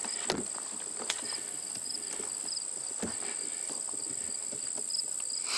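Late-summer insect chorus: a steady high trill with a short pulsed chirp repeating a little lower in pitch. A few footsteps are heard along the trail.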